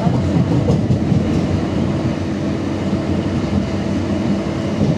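Passenger train running at speed, heard from inside the carriage: a steady rumble of wheels on rails with a few faint clicks.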